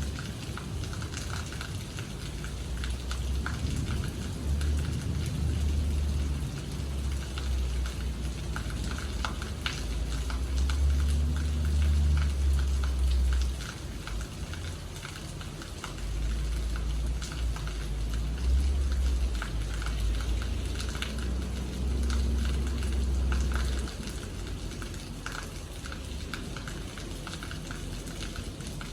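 Steady rain falling, with many separate drops ticking sharply close to the microphone. A low rumble swells and drops away several times underneath.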